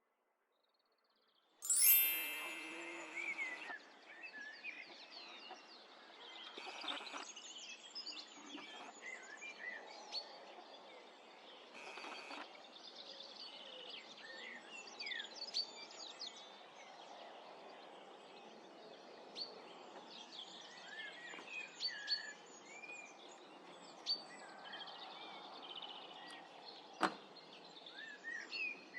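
Outdoor background noise with many small birds chirping and twittering throughout. The sound cuts in abruptly about two seconds in with a brief ringing tone, and there is a single sharp click near the end.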